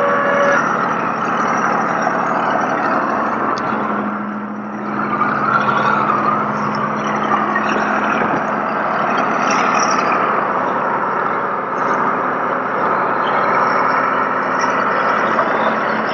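Tow truck engine running, a low steady hum under a continuous rushing noise, with a brief lull about four seconds in.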